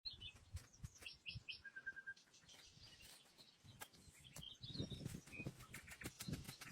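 Small songbirds chirping in woodland: short high chirps, then a quick run of five lower notes about two seconds in. Soft clicks, knocks and low thuds come in during the second half.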